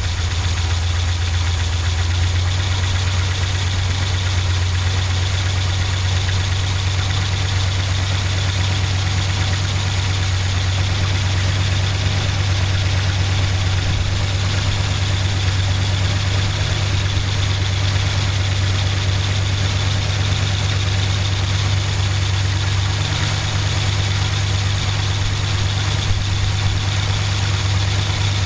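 1964 Chrysler Windsor's 361 big-block wedge V8 idling steadily with its valve covers off, the rocker arms and valve springs working in the open, not long after a cold start.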